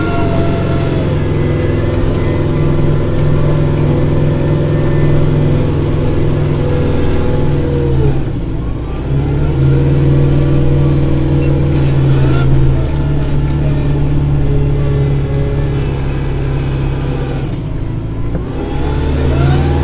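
Kubota tractor's diesel engine running at working speed while driving a snow blower. Its note drops and picks up again about eight seconds in and once more near the end.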